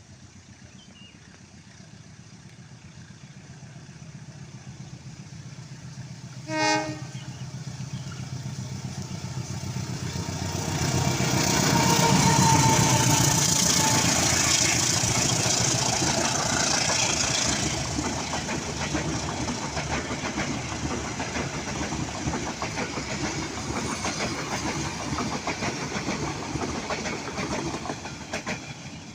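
Train hauled by two diesel locomotives approaching, with a low engine hum that builds steadily. One short horn blast sounds about seven seconds in. The locomotives then pass loudly, followed by the steady rolling noise of the carriages on the rails.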